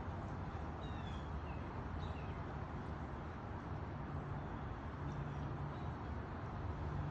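Small birds chirping a few times, in short high calls, over a steady low hum and outdoor background noise.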